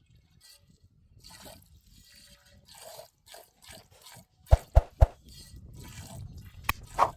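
Small water sounds, drips and splashes, with sharp knocks: three close together about four and a half seconds in, and two more near the end.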